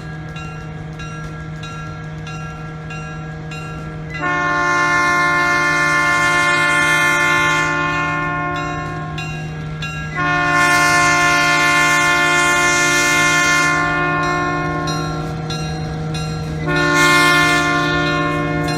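Baldwin RS-4-TC diesel switcher's air horn sounding a long chord, quieter at first and then louder about four seconds in, followed by two more long blasts with short breaks between, over the steady drone of the idling diesel engine.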